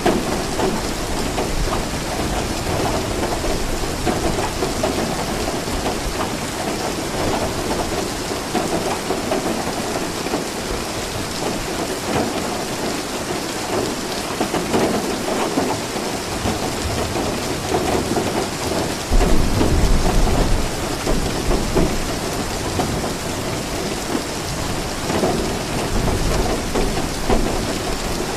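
Steady heavy rain falling, with a low rumble of thunder rolling in about two-thirds of the way through.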